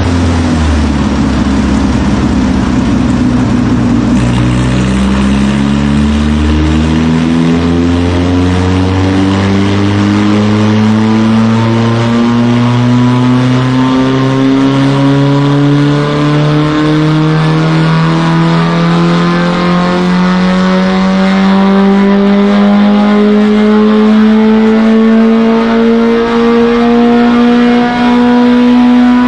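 Car engine under heavy throttle, its revs climbing slowly and steadily the whole time after an uneven first few seconds.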